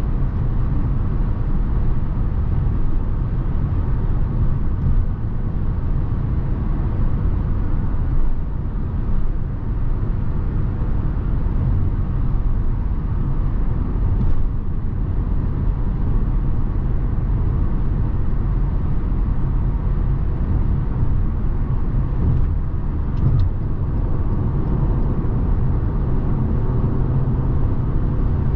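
Steady low rumble of tyre, wind and drivetrain noise from a 2017 Lexus NX 300h hybrid cruising at motorway speed, with a few faint ticks about halfway and near the end.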